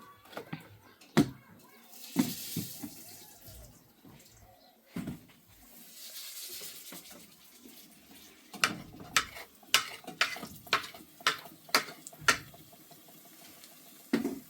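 Water running or pouring in two short spells, then a quick run of about a dozen sharp knocks and clinks.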